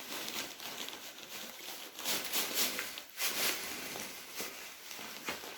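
Coarse sand being poured and shifted into a cement planter: a gritty hiss that comes in several rushes, strongest about two seconds in and again just after three seconds.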